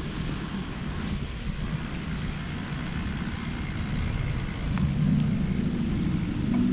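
Wind rumble on the microphone and road noise from a bicycle being ridden, growing gradually louder toward the end.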